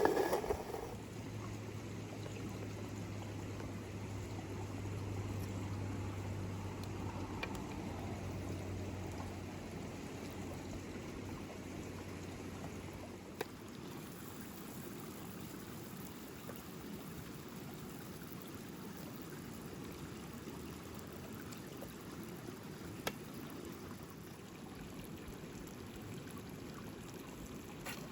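Steady rushing noise like running water, with a low hum under it for about the first half and a few faint clicks.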